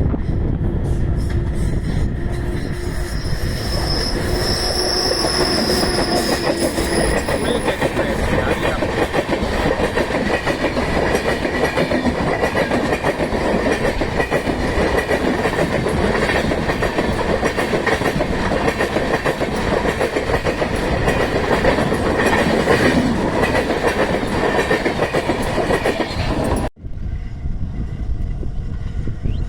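A passenger train running past close by, its wheels rumbling and clattering over the rail joints. A thin, high squeal rises over it about three seconds in and lasts a few seconds. Near the end the sound drops suddenly to a quieter train noise.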